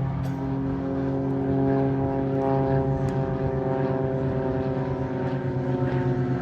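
Propeller aerobatic plane flying a display, its piston engine and propeller giving a steady drone that gets a little louder about two seconds in.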